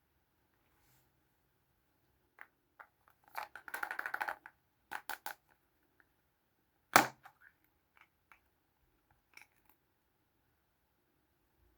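Small plastic Kinder Surprise toys being handled: scattered light clicks and a short stretch of quick rattling clicks, then one sharp, loud plastic click about seven seconds in.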